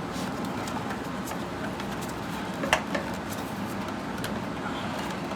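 A few light clicks and knocks from the plastic parts of a water heater vent fan housing being worked into place, over a steady low hum.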